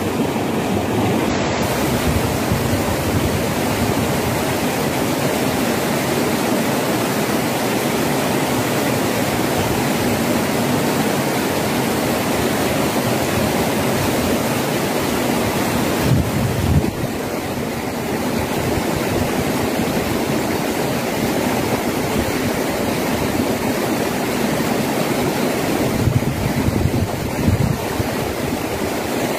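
Steady rush of stream water flowing among rocks.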